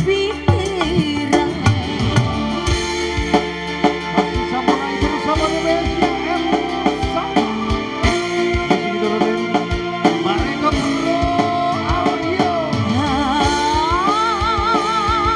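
Live band music, an instrumental passage between sung verses: a steady drum beat under a melodic lead line that wavers with vibrato and climbs higher near the end.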